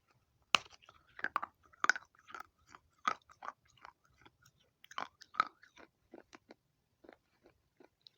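Pieces of baked clay pot coated in grey paste being crunched: a string of sharp, crisp crunches at irregular intervals. The loudest comes about half a second in, with clusters around two, three and five seconds, and they thin out near the end.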